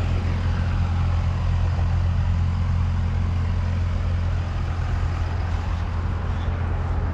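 A steady low engine rumble with a constant hum and a light hiss over it, unchanging throughout.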